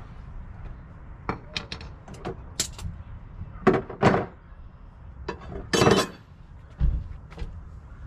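Irregular metallic clinks and knocks of hand tools and parts being handled. The loudest are a pair of clunks about four seconds in, a longer rattling clunk around six seconds, and a dull thud just before seven seconds.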